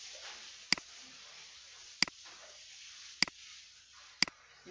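Computer mouse clicks: four sharp clicks, roughly a second apart, each a quick press-and-release double tick, over a faint steady hiss.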